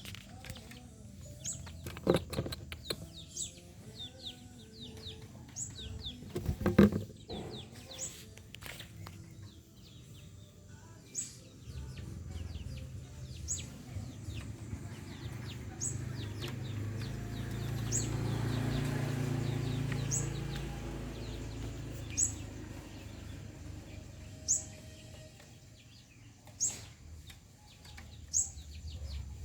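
A bird's short, high, falling call, repeated about once a second. Two sharp knocks come at about two and seven seconds in, and a low rumble swells and fades in the middle.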